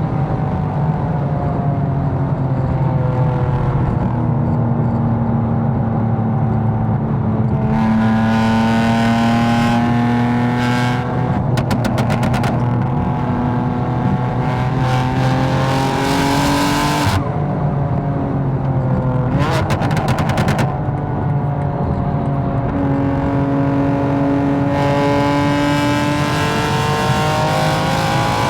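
Tuned BMW M4's twin-turbo inline-six running under way, its note climbing slowly and then dropping back, twice. Three short spells of rapid fluttering ticks come when the note changes.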